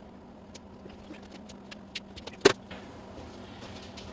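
Hand tools being handled: a few light metallic clicks and one sharper clink about two and a half seconds in, over a faint steady hum.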